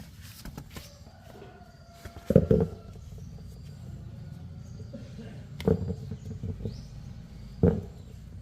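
A few sharp knocks, the first two each a quick pair, over a low steady hum.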